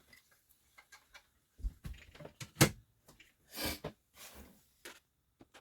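Scattered clicks, light knocks and short scrapes from a small speaker and plastic dash parts being handled and pulled out, with one sharper click about two and a half seconds in.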